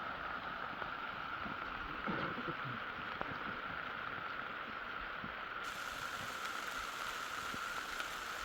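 Steady rushing noise of heavy rain.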